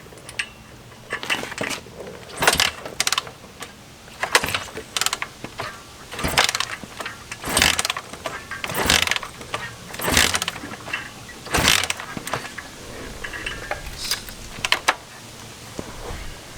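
Kick-starter of a 1975 Honda CB550 being kicked over again and again, about one kick every second and a half, a ratcheting clatter with each stroke. The four-cylinder engine turns over without firing because no spark is reaching the plugs.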